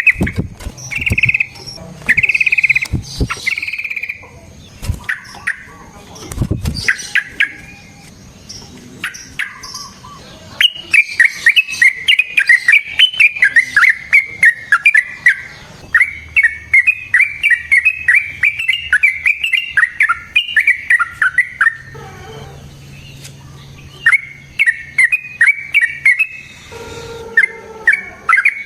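Yellow-vented bulbul (trucukan) singing: short bursts of quick chirping notes at first, then a long unbroken rolling run of rapid notes lasting about eleven seconds, a short break, and more chirping near the end.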